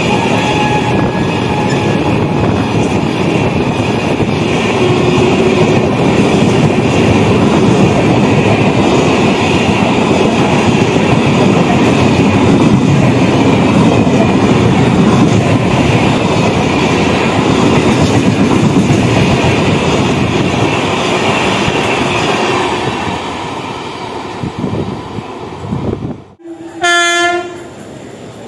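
LHB express coaches passing at speed along the platform: a loud steady rumble with wheels clattering over rail joints, fading away about three quarters of the way through. Near the end, one short loud blast of an electric locomotive's horn.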